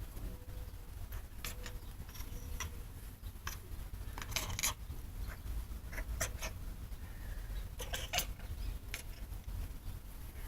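A cat chattering at a bird it is watching: short, irregular, dolphin-like squeaks and chirps, bunched at about four seconds in and again near eight seconds.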